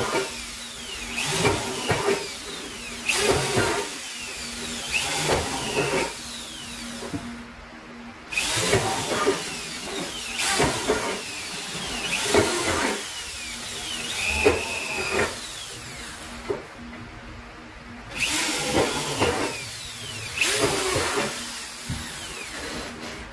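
Electric drill boring holes in aluminium louvers, run in a series of short bursts with pauses between, its whine falling in pitch as it winds down after each burst.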